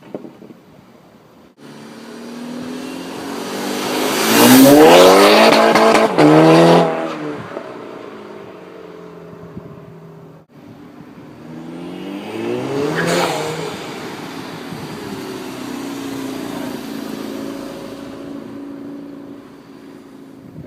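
Turbocharged four-cylinder of a VW Golf Mk6 GTI with APR Stage 2 tune and APR RSC turbo-back exhaust accelerating hard, the exhaust note rising to a loud peak about four to six seconds in, with a brief dip near six seconds, then falling away. A second pass rises to a peak near thirteen seconds and then holds a steadier drone.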